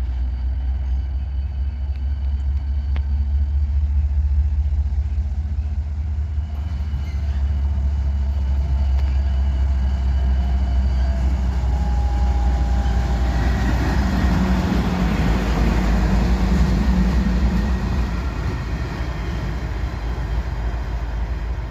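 Diesel locomotive running light with no cars, its engine rumbling steadily. The sound swells through the middle of the stretch as it moves past, with rising rail and running noise and a held engine tone, then eases slightly near the end.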